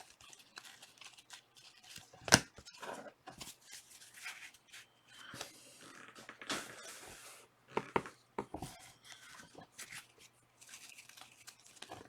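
Trading-card packs being opened and cards handled: on-and-off crinkling and tearing of foil wrappers and cards rustling against each other, with a sharp click about two seconds in and a longer tearing rustle around six to seven seconds in.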